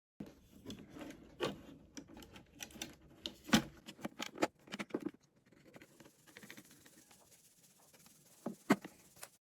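Small parts and tools handled on a workbench during a speaker repair: irregular clicks, taps and light scratches. The sharpest tap comes about three and a half seconds in, and another near the end.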